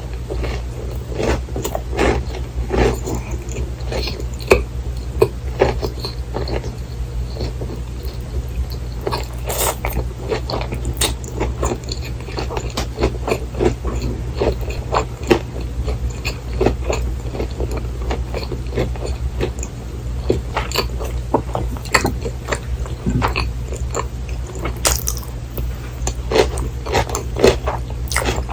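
Close-miked eating sounds of a cheese pork cutlet and rice being chewed, with frequent short, crisp mouth clicks at an irregular pace. A steady low hum runs underneath.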